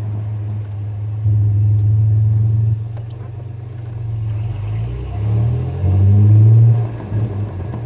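A truck driving: a steady low drone of engine and road noise. It gets louder about a second in, eases off near three seconds, and swells again with the engine note rising between about five and seven seconds as it speeds up.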